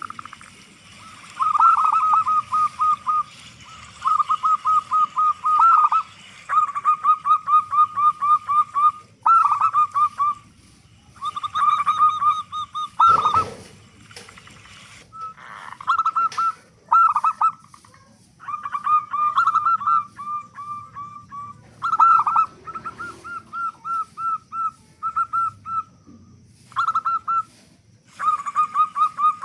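Zebra dove cooing: repeated phrases of rapid staccato notes, each phrase one to two seconds long, with short pauses between them. A brief knock about thirteen seconds in.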